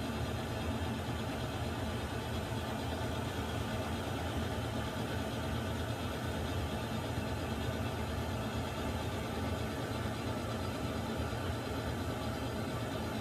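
Water heater running: a steady, unchanging rumble with an even hiss over it, strongest in the low end.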